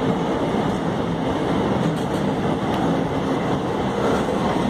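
Empty iron-ore freight train passing on the rails: a steady, continuous rolling rumble.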